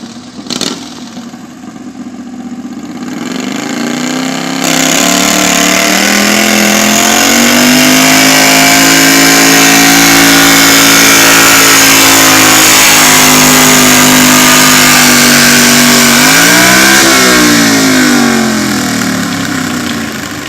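Modified garden pulling tractor's engine at full throttle on a pull: the revs build over the first few seconds, then hold high and steady under load. About 17 seconds in the revs flare up and fall back, as if the tractor slipped out of gear, and the engine then dies down.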